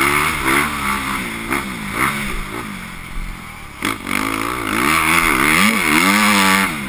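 Motocross bike engines revving, their pitch rising and falling over and over as the throttle opens and closes, with a sharp knock just before four seconds in.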